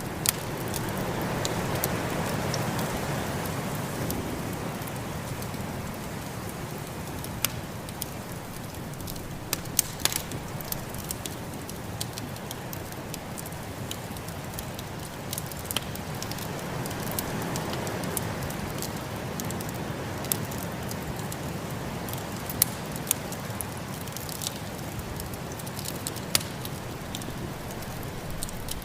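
Wood fire crackling, with scattered sharp pops, over the steady rush of a snowstorm wind that swells twice.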